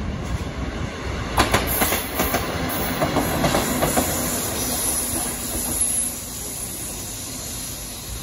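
Freight train passing close by, its wheels clattering over rail joints in a quick run of clacks over a steady rumble, which drops off about six seconds in.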